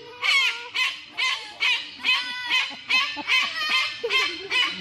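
A bird calling over and over, about two to three short, evenly spaced calls a second.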